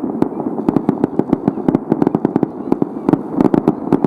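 Fireworks display: a rapid, irregular crackle of many sharp pops over a steady rumble.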